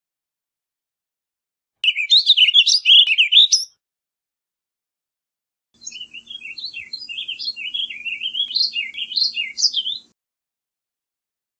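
Two warbling vireo songs: a rapid, rambling warble of about two seconds, then after a pause a longer, quieter warble of about four seconds over a faint low hum.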